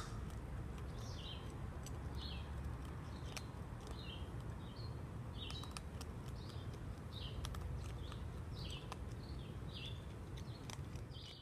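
A small bird chirping in short, high notes, repeating about once a second, over a steady low rumble, with a few faint clicks scattered through.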